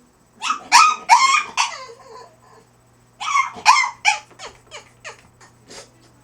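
French bulldog crying in high pitched yelps: four loud cries close together, a pause of about a second, then two more loud cries that trail off into a run of short, quieter yips. This is the protest of a dog being crate trained.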